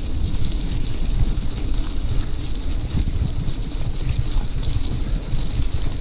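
Wind buffeting the microphone of a camera riding on a moving bicycle, a fluttering low rumble, with a steady hiss of riding noise above it.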